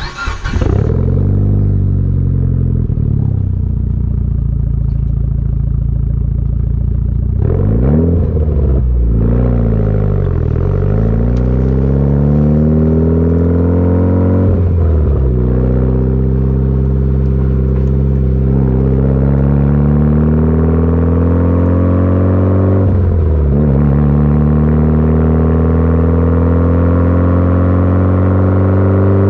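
Mitsubishi Lancer Evolution IX's turbocharged 2.0-litre four-cylinder running through a muffler-delete exhaust while driving. The engine note climbs slowly and drops back at each gear change, several times over.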